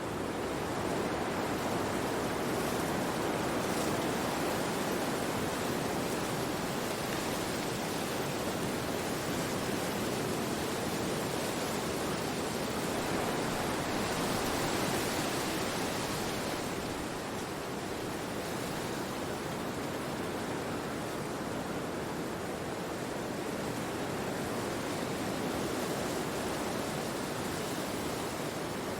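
Steady rushing of wind through forest trees, swelling a little about halfway through and then easing.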